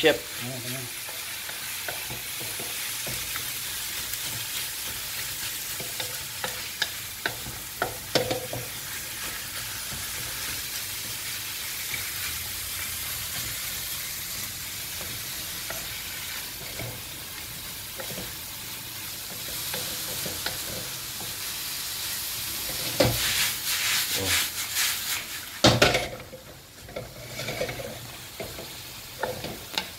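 Ground pork with garlic and onion sizzling in butter in a wok, while a wooden spatula scrapes and knocks against the pan as it is stirred. The stirring gets louder about three-quarters through, and the sizzle is quieter after that.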